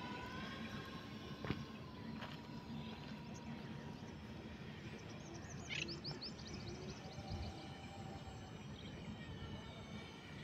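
Faint, steady hum of a quadcopter drone's motors and propellers over outdoor background noise, with a bird giving a quick run of high chirps about five to six seconds in.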